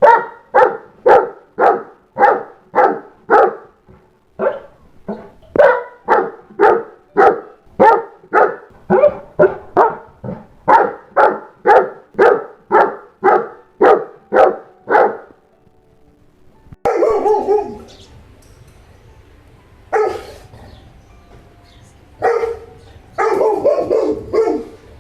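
Saint Bernard barking over and over, about two barks a second for some fifteen seconds. After a short pause come a few more bursts of barking over a low, steady background rumble.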